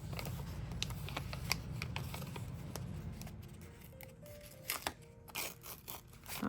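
Soft background music under paper handling: a sticker sheet rustling and stickers being peeled off and pressed onto a planner page, with scattered short crinkles and taps, the loudest near the end.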